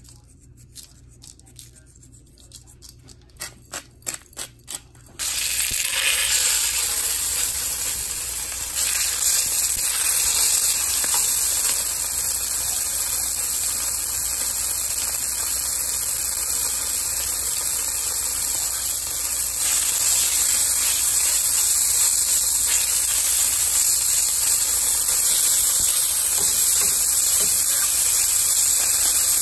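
Chicken breasts sizzling steadily in hot oil in a frying pan, the sizzle starting suddenly about five seconds in. Before it, a few quick light taps.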